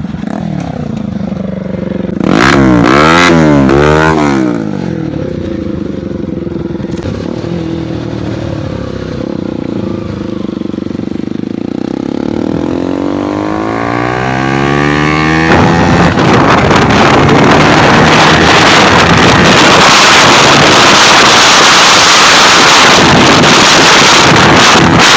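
Dirt bike engines revving on an off-road track: a loud burst of quick up-and-down revving about two seconds in, then an engine climbing steadily in pitch as it accelerates, and from about fifteen seconds a loud, rough engine sound close by with a lot of hiss that runs on.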